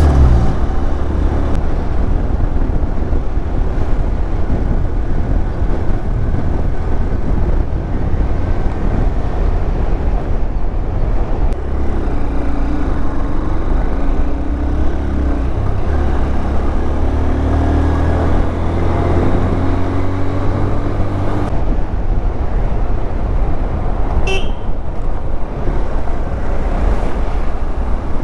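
Honda Hornet motorcycle riding along, its engine running under wind rumble on the helmet microphone, the engine pitch rising and falling in the middle. A short horn beep sounds near the end.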